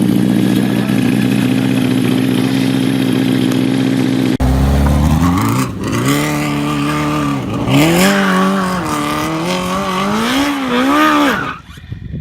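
Go-kart powered by a motorcycle engine, running at steady high revs, then the revs rising and falling several times before dropping away near the end.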